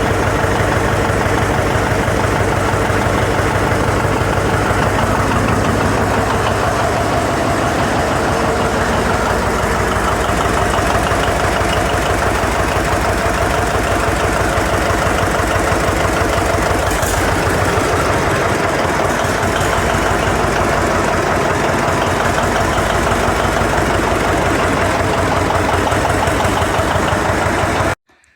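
John Deere 720 two-cylinder diesel engine running steadily, its injectors freshly redone. The sound cuts off abruptly near the end.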